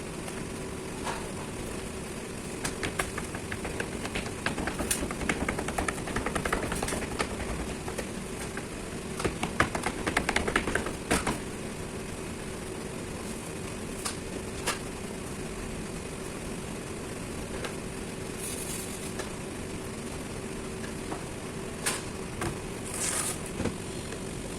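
Steady hum of workshop machinery with one constant tone, broken by scattered clicks, knocks and clatter. The knocks come in busy clusters a few seconds in, around the middle, and again near the end.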